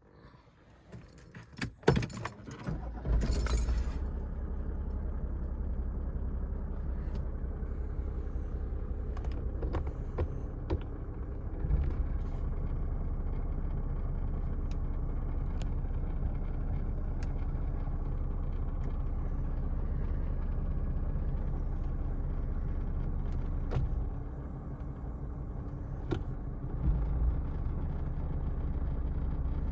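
Keys jangle in the ignition and the Mercedes-Benz W124's engine starts about three seconds in, then idles steadily. The engine note drops a little after about 24 seconds and grows louder again with some knocking near 27 seconds, typical of the car being put in Drive, where it rattles; the owner puts this down to a defective engine mount.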